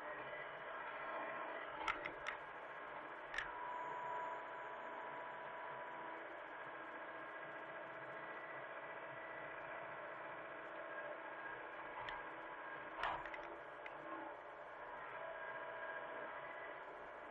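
Hitachi mini excavator's diesel engine running steadily, with a few sharp knocks about two, three and a half and thirteen seconds in.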